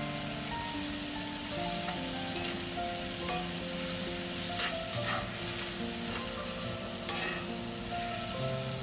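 Sliced mushrooms sizzling in a hot cast iron skillet while metal tongs toss them, the tongs clicking against the pan several times. Soft background music with held notes plays underneath.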